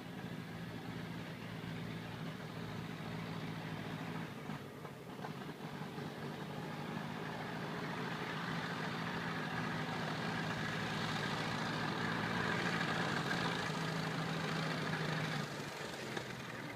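1926 Ford Model TT one-ton truck's four-cylinder engine running as the truck drives along, slowly growing louder over about twelve seconds, then dropping away sharply near the end.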